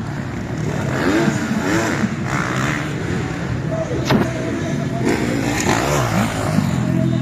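Motocross dirt bike engines revving, their pitch rising and falling several times, with onlookers' voices behind.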